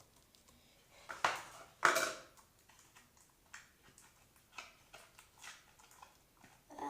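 Plastic slime containers being handled and swapped: a few short rustles and knocks, the loudest two about one and two seconds in, then smaller clicks.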